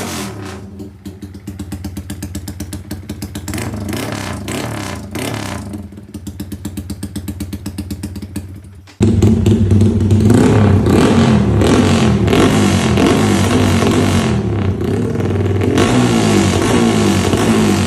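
Yamaha Y15ZR motorcycle's single-cylinder four-stroke engine running with a pulsing, lumpy beat. About halfway through it jumps abruptly to a much louder, wavering revving.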